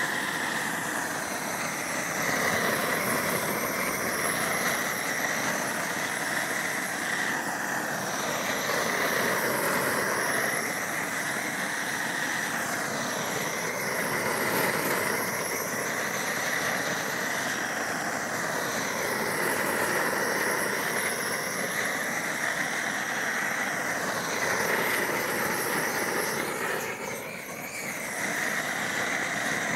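Homemade propane roofing torch burning steadily while bitumen roll roofing is melted on, its tone swaying every second or two as the flame is swept back and forth. It dips briefly near the end.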